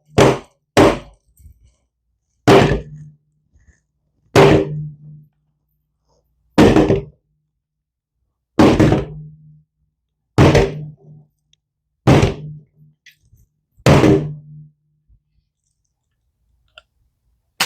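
A loaded Sig P320 pistol being struck hard, giving nine heavy thunks: two quick ones at the start, then seven about two seconds apart, each with a brief low ring. There is no gunshot: the striker-fired pistol does not go off without the trigger being pulled.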